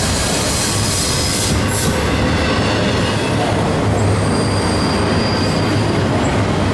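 A BNSF freight train rolling past, its cars and wheels making a steady noise on the rails, with a faint high-pitched wheel squeal partway through.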